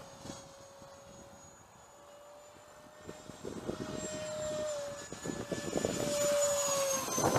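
RocHobby F-16 model jet's electric ducted fan in flight, a steady high whine. It grows louder from about three seconds in and dips slightly in pitch near the end as the jet passes.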